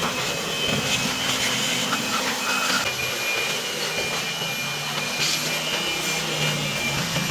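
A motor running steadily, with a dense hiss and a thin high whine.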